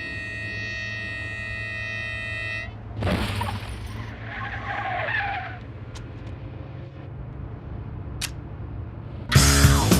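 Car-chase sound: a car engine rumbling steadily under a long held tone for the first few seconds, then a loud rush and tyres squealing about four to five seconds in, with a couple of sharp clicks. Loud funk music with bass guitar and drums comes in near the end.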